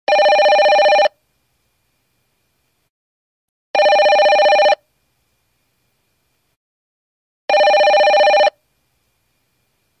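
Telephone ringing: three rings, each about a second long, a little under four seconds apart.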